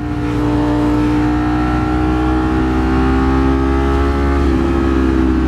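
Ducati Streetfighter V4 S's 1,103 cc V4 engine running under way at steady revs, its pitch easing slowly downward, with a small change about four and a half seconds in.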